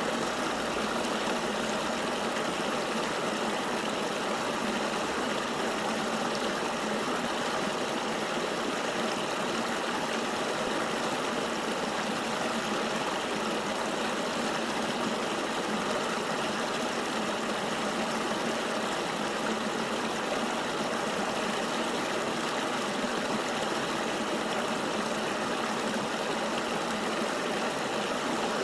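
Flowing river water, a steady even rush with no distinct splashes or changes.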